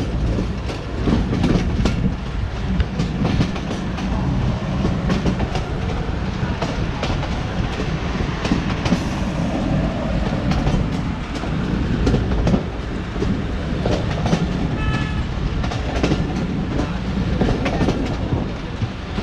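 Bangladesh Railway local train running along the track: a steady heavy rumble with repeated clickety-clack of the wheels over rail joints.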